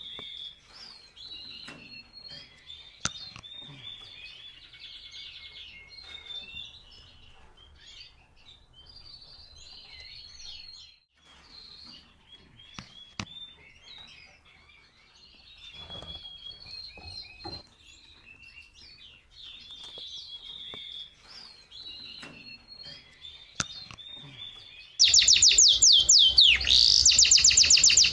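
Canaries chirping and trilling in short phrases. About 25 seconds in, a much louder canary song of fast repeated sweeping notes cuts in suddenly.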